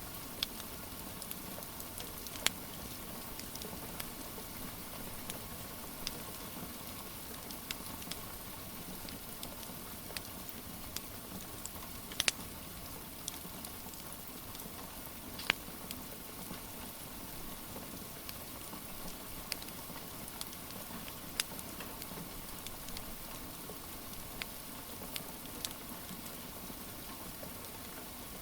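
Steady rain hiss with a wood fire crackling over it: scattered sharp pops every second or few, a few louder than the rest.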